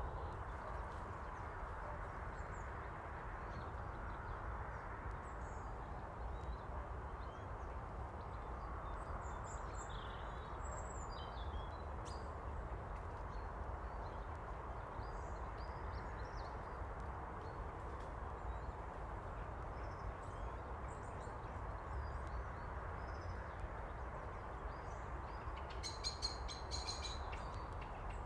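Outdoor woodland ambience: a steady low rush with faint, scattered bird chirps, and near the end a short run of rapid high ticking bird notes.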